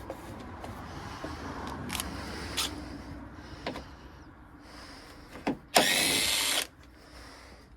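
Cordless drill turning a 10 mm socket to back out a bolt, running in one short whining burst of about a second near the end. Before it come scattered clicks and rattles of the tool and socket.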